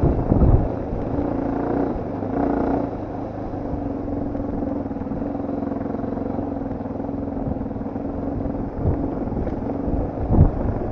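Dirt bike engine running on the move: the revs shift briefly about two seconds in, then hold steady. Low thumps come at the start and again near the end.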